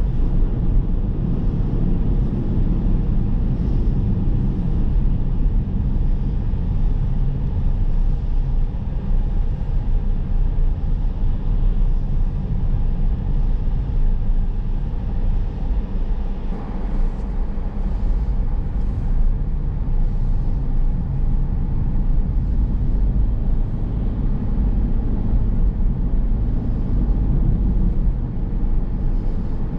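Car driving along a road: a steady low rumble of tyre, engine and wind noise.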